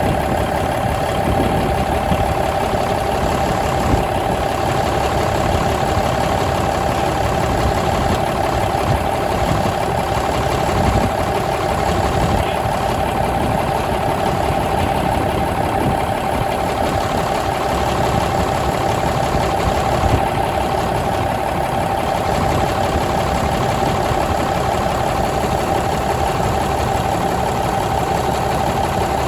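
Cummins N14 CELECT+ inline-six diesel engine running steadily at a constant speed, with no revving.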